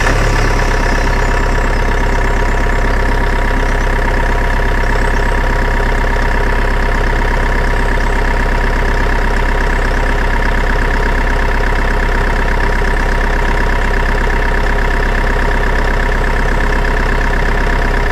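Engine idling steadily with an even, unchanging note. It starts and cuts off abruptly.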